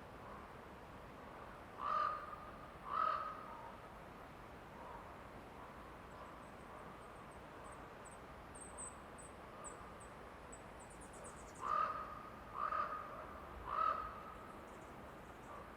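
A bird calling loudly twice, then three more times about ten seconds later, over a steady background hiss. In between, a faint, very high, thin chirping of a smaller bird.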